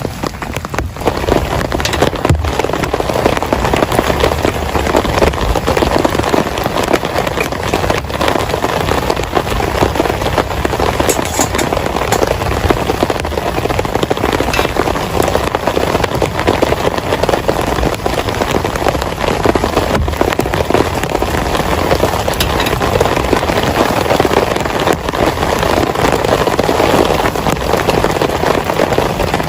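Heavy rain pouring down, a dense steady patter of drops striking a surface.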